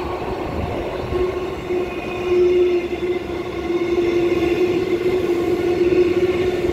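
A Transperth six-car electric multiple-unit train running slowly through the platform. Its traction motors give a steady whine over the wheel and rail rumble, growing a little louder as the cars go past.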